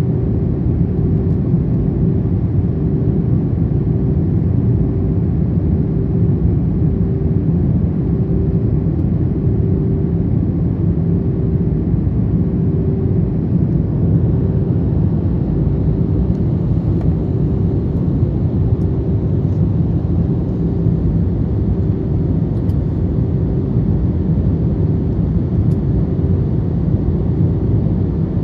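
Airbus A321 cabin noise from a window seat during the descent: a steady, even rumble of engines and airflow, with a steady hum held above it.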